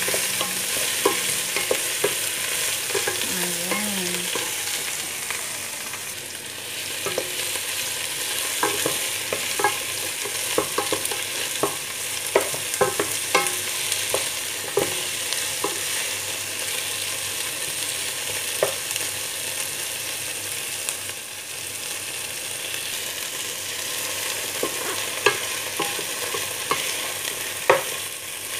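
Chicken pieces and sliced onions sizzling in oil in a nonstick pot, browning. A wooden spatula stirs them, scraping and knocking against the pot in short, irregular clicks over the steady sizzle.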